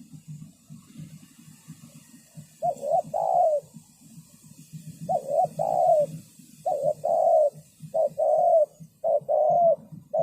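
Spotted dove cooing: about five short phrases of low two-part coos, starting a couple of seconds in and coming every second or two, over a steady low rumble.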